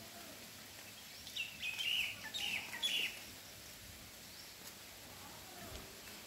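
A bird calling: a quick run of short chirps, each bending down in pitch, from about a second and a half in for under two seconds, over faint outdoor background noise.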